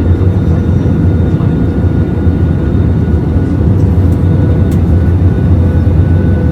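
Airbus A320 cabin noise: a steady, loud rumble of the jet engines and airflow, with a faint steady whine above it.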